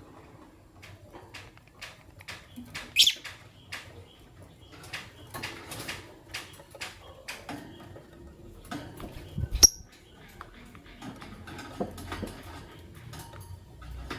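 Lovebirds chirping in short scattered calls amid many small clicks and taps. There is a sharp, loud high chirp about three seconds in, and a louder sharp click with a brief high squeak a little past the middle.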